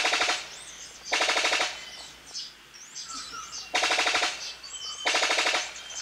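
Brown sicklebill calling: four short bursts of rapid, machine-gun-like rattling pulses, each about half a second long. Fainter whistles of other forest birds are heard between them.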